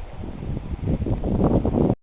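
Rustling with low wind rumble on the microphone, growing louder and then cutting off abruptly near the end as the recording stops.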